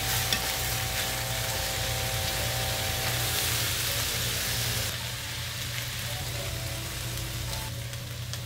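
Chicken thighs and sliced onions sizzling in a nonstick frying pan with no oil, frying in the chicken's own rendered fat, while a spatula stirs and turns them. The sizzle is steady and drops a little about five seconds in.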